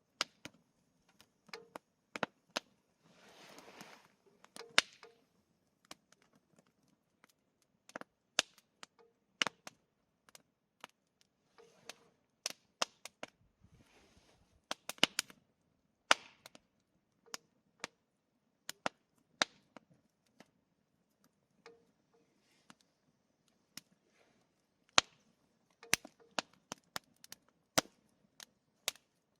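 Wood campfire crackling: irregular sharp pops, a few of them loud, with brief hisses from the burning wood, the longest a few seconds in.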